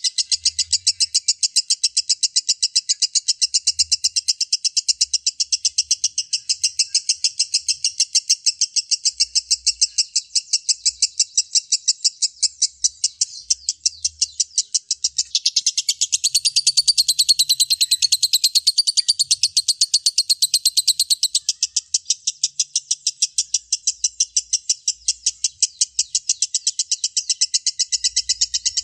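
A lovebird 'ngekek': a long, unbroken chattering trill of rapid, evenly repeated sharp chirps. Between about 15 and 21 seconds in, a second, higher chatter overlaps it.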